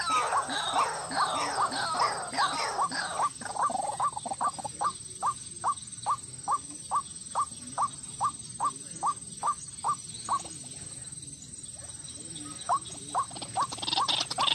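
White-breasted waterhen calling. It starts as a jumble of overlapping calls, then settles into a steady series of short repeated notes, about two and a half a second. The notes pause for a second or two near the end, then start again.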